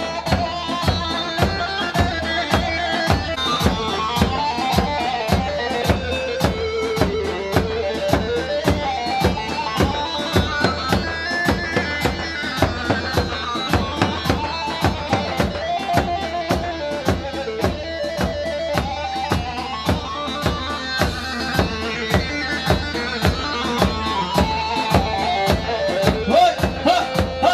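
Instrumental halay folk dance music: a reedy, wavering melody over a steady, fast drum beat.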